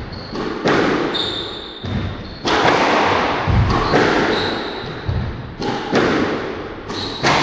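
Squash rally: the ball is struck by racquets and smacks off the court walls, each sharp hit echoing through the hall. Short high squeaks of court shoes come in between the hits.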